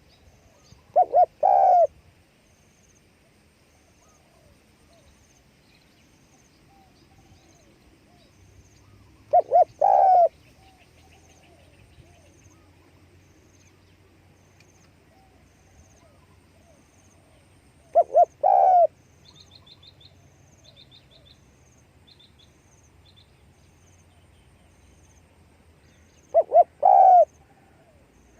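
Spotted dove cooing: four calls about eight and a half seconds apart, each two short notes running straight into a longer one. Faint high chirps of another small bird come between the third and fourth calls.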